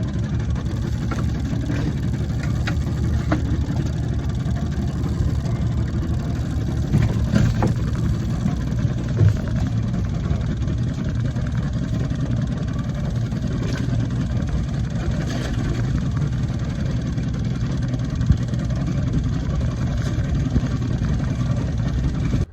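Small fishing boat's outboard motor running steadily, with a few brief knocks around seven to nine seconds in.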